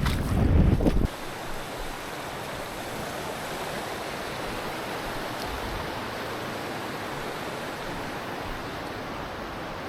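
Steady rush of a mountain stream's flowing water. For about the first second, wind buffets the microphone with a low rumble that stops abruptly.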